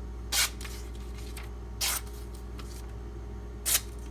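Three short swishes of a knife blade being drawn, about a second and a half apart, over a steady low electrical hum.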